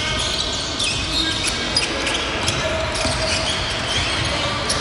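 Basketball bouncing on a hardwood gym floor during play, a string of sharp knocks with short high sneaker squeaks and a background of voices in the echoing hall.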